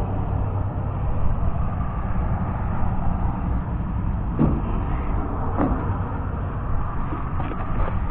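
A vehicle engine running steadily with a low rumble, with two brief squeaks about halfway through.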